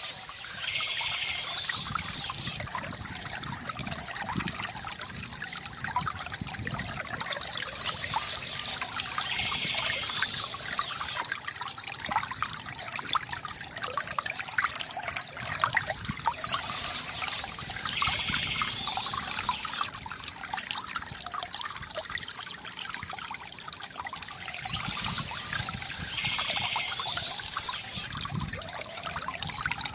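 Small stream trickling and splashing steadily over stones. Brighter, higher sounds that fit birds singing recur about every eight seconds.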